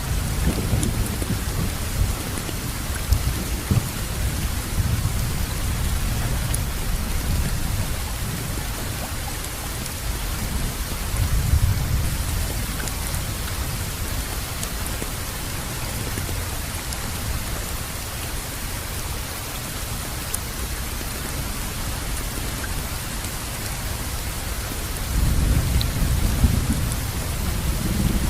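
Steady rain falling, with low thunder rumbling at the start, again about twelve seconds in, and swelling louder near the end.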